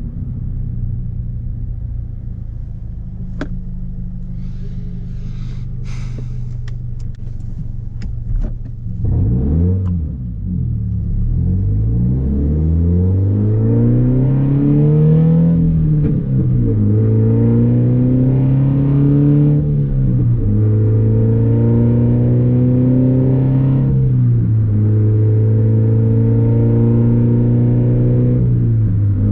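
Scion FR-S's 2.0-litre flat-four with muffler and resonator deleted: a steady low note with a few sharp clicks, then the car pulls away and the engine note climbs, drops at each of three upshifts and settles into a steady cruise.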